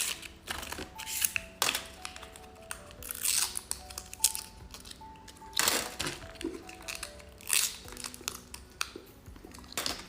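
Plastic candy wrapper crinkling and tearing in short, sharp crackles, over soft background music with a light melody.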